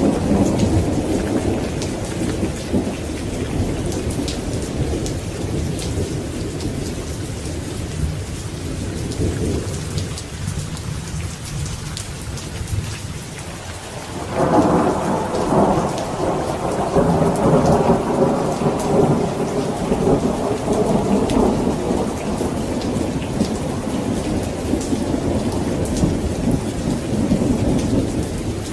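Steady rain with thunder rumbling through it. The thunder fades over the first ten seconds, and a fresh roll breaks in sharply about halfway through and rolls on for several seconds.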